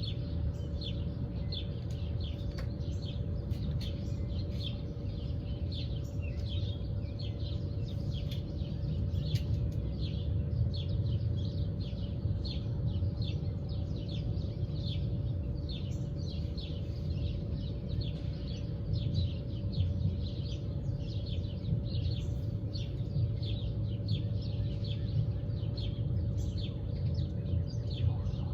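Birds chirping in a continuous run of short, high chirps, a few a second, over a steady low rumble and a faint constant hum.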